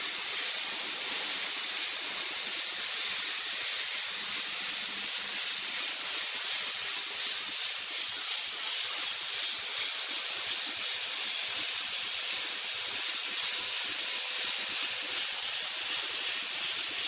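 Steady, loud hissing, strongest in the high range, with a slight regular waver in loudness.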